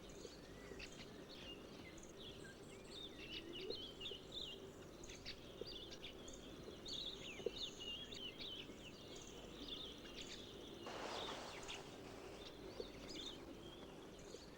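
Faint natural ambience: many short bird chirps and twitters over a low steady hum, with a brief hiss about eleven seconds in.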